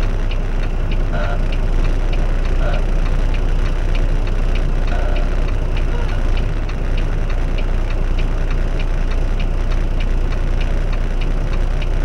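Truck engine rumbling steadily, heard inside the cab, with an even clicking about three times a second from the turn signal.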